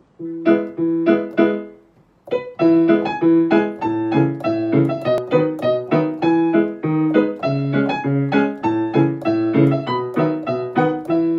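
Background piano music: a light melody of repeated notes, pausing briefly about two seconds in before carrying on.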